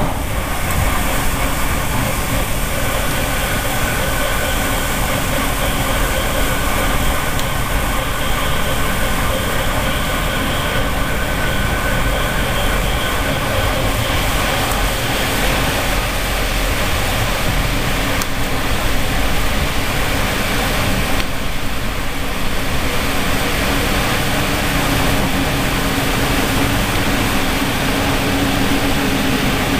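Passenger train running along the track, heard from inside the carriage: a steady rumble of wheels and running gear.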